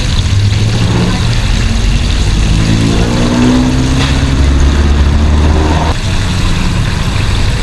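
Road traffic rumbling, with a vehicle engine accelerating past, its pitch rising for about three seconds before it drops away about six seconds in.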